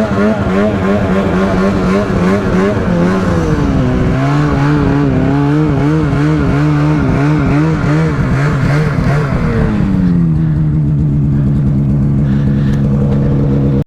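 Polaris snowmobile engine running at a steady high speed, then revving up and down in quick waves for several seconds. It then drops back to a steady lower speed for the last few seconds.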